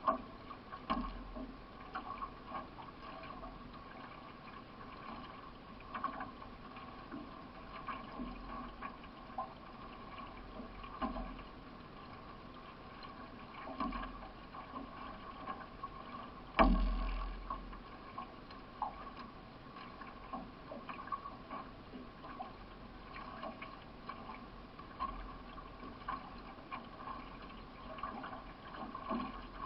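Paddle strokes and water washing along the hull of a solo (C1) racing canoe under way, with irregular light knocks of the paddle and one louder thump against the hull about two-thirds of the way through.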